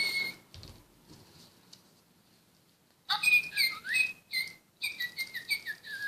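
Little Live Pets electronic toy birds chirping and tweeting: after a near-quiet stretch, a quick run of short, high whistled chirps starts about three seconds in, some sliding up or down in pitch.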